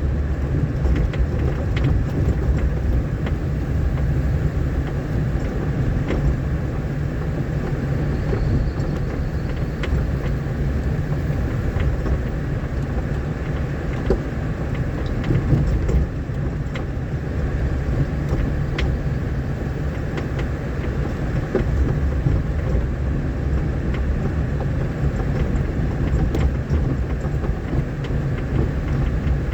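A vehicle driving along a rough rain-damaged dirt road: a steady low rumble with scattered small knocks and rattles.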